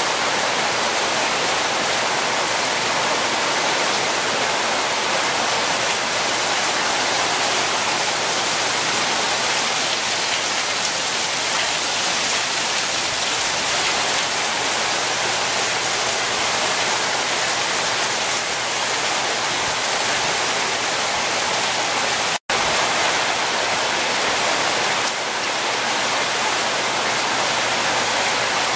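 Heavy rain pouring down onto roofs and patio covers, a dense, steady hiss. The sound drops out completely for an instant about three quarters of the way through.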